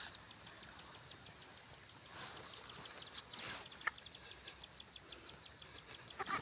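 An insect trilling steadily at one high pitch, with a fast ticking pulse in it, amid faint rural ambience and a few soft rustles.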